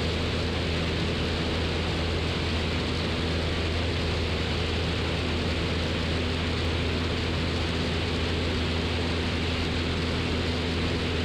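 Steady drone of a 1969 Cessna 172's four-cylinder Lycoming O-320 engine and propeller under an even rush of airflow, heard inside the cockpit. The engine is held at steady power on final approach.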